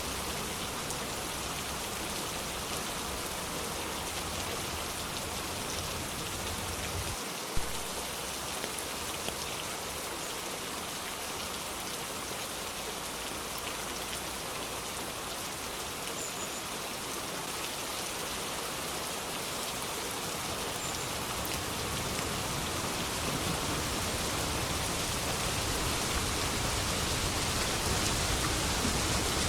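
Steady rain falling, an even hiss of drops with a single sharp tap about seven seconds in. The rain grows gradually louder and fuller over the last third.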